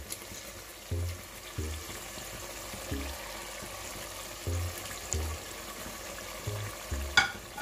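Tomatoes and onion masala sizzling steadily in hot oil in a pot, under background music with a low, repeating bass. A brief sharp sound comes near the end.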